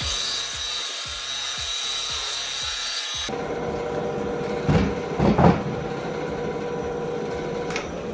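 Ryobi BS904G 9-inch band saw cutting through thick cedar for about three seconds. The cutting noise stops suddenly and the saw keeps running with a steady hum. A couple of dull knocks come about five seconds in.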